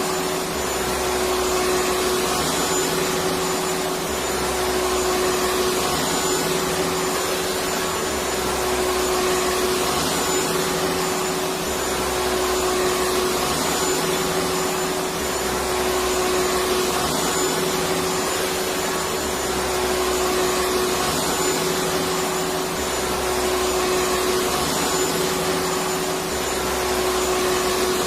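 Vacuum cleaner running steadily, a constant whirring hiss with a held hum. A low rumble underneath comes and goes every few seconds in a regular repeating pattern.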